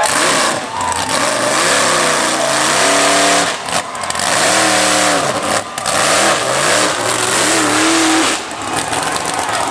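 Racing truck's engine revving hard, its pitch climbing and dropping several times, with two short dips about a third and two-thirds of the way through.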